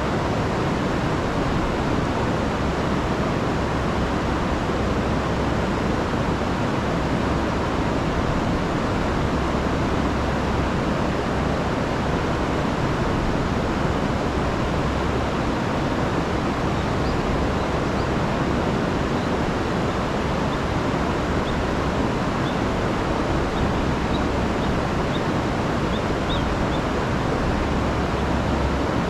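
River in spate, swollen by a week of rain, with a steady rushing of water over falls. A few faint high ticks come through in the second half.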